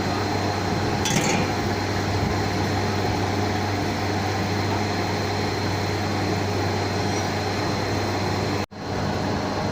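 Steady machinery hum with a thin, steady high whine, as of running chiller-plant equipment. A single sharp metallic clink sounds about a second in, and the sound drops out for an instant near the end.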